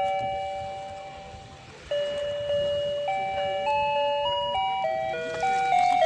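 Toy fishing game playing its simple electronic tune, one beeping note at a time. A held note fades, then the tune picks up again about two seconds in.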